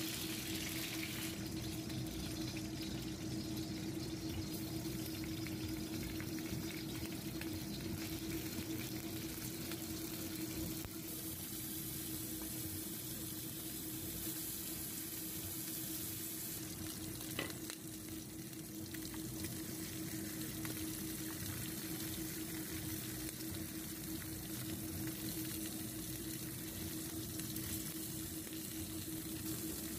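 Small whole fish frying in shallow oil in a pan, a steady sizzle, with a steady low hum underneath. One sharp click a little past halfway.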